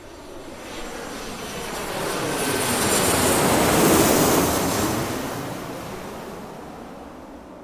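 Airplane passing by: its engine noise swells to a peak about four seconds in, then fades away.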